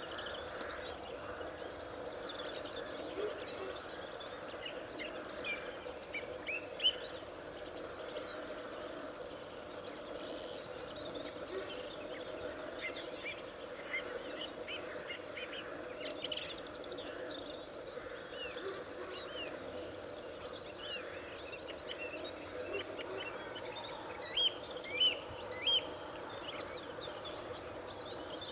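Small songbirds singing in a chorus: many short, high chirps and twittering phrases from several birds, over steady background noise.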